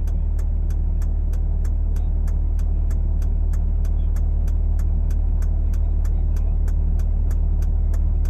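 A vehicle's steady low engine and road drone while driving, with a regular faint ticking about three to four times a second over it.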